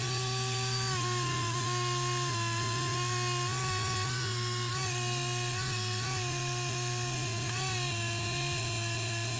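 Dremel rotary tool with a wire wheel running at mid speed, a steady whine that dips slightly in pitch now and then as the wheel is pressed into rusted steel pliers.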